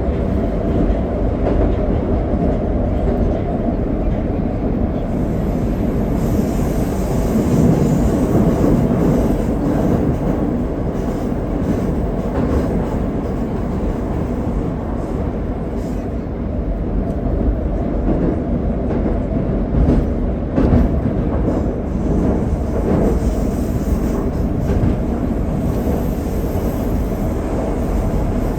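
81-761 'Oka' metro train running through the tunnel, heard from inside the car: a steady, loud rumble of wheels and motors.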